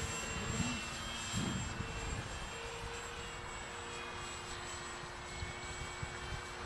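Motor and propeller of a radio-controlled Hobbyking Cessna 1500mm model plane in flight, a steady drone whose pitch shifts slightly, with wind buffeting the microphone.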